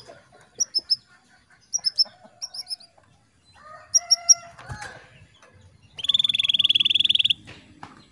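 Canaries calling: short high chirps in quick groups of two or three, then a fast rattling trill lasting just over a second near the end, which is the loudest part.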